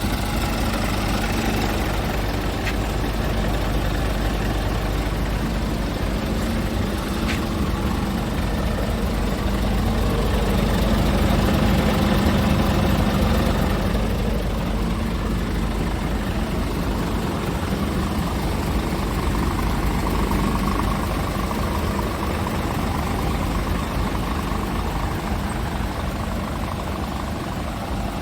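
Scania R490 tractor unit's 13-litre straight-six diesel engine idling steadily, growing a little louder for a few seconds about ten seconds in.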